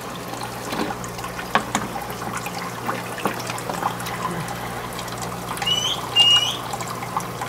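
Water trickling and splashing steadily in a small aquaponic system's tanks, over a low steady hum. Two or three short high chirps come about six seconds in.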